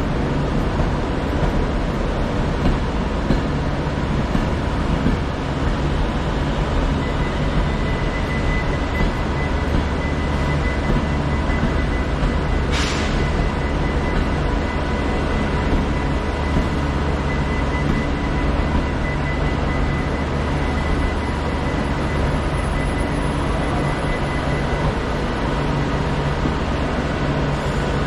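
Diesel locomotive idling at a platform: a steady, loud engine hum under general station noise, with a faint steady high whine through much of it and a single sharp click about halfway.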